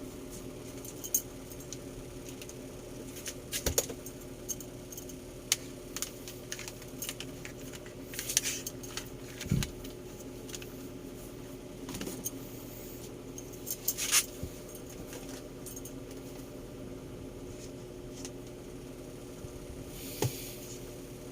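Scattered light clicks and small metallic clatters of hand-held appliances and their parts being handled, over a steady low hum.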